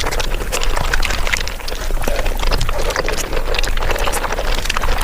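Mukbang eating sounds of paneer butter masala sped up five times: wet chewing, smacking and squelching run together into a dense stream of rapid clicks.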